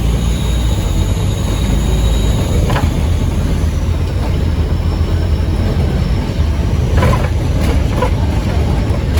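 Scania N230UD OmniCity bus's engine running under way, with a low rumble and a high turbo whistle that fades out about two and a half seconds in. A few short rattles come near the middle and toward the end.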